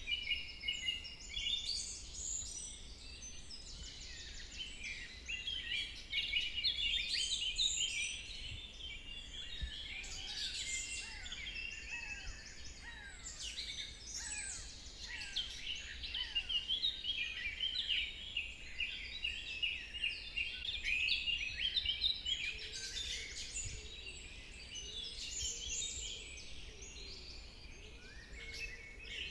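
Dawn-chorus-like forest birdsong: many songbirds chirping, whistling and trilling at once, overlapping continuously, over a faint steady low rumble.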